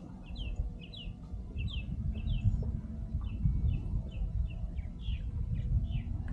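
A bird calling over and over: short, high chirps that slide downward in pitch, two or three a second, over a steady low rumble.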